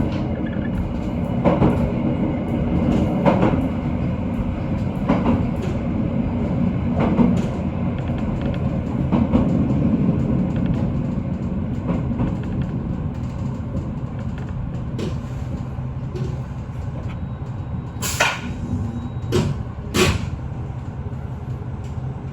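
Cabin noise of a JR Shikoku N2000-series diesel express railcar braking into a station: a steady low rumble with wheels knocking over rail joints roughly every two seconds, growing quieter as the train slows, then a few sharper clacks near the end.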